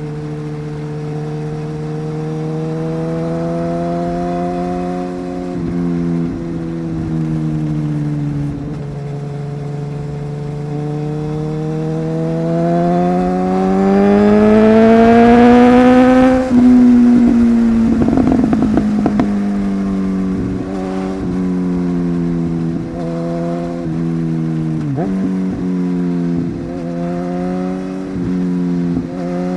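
Inline-four superbike engine under way: its pitch climbs for several seconds as the bike accelerates, drops sharply at a gear change a little past halfway, then wavers with throttle changes and brief dips near the end.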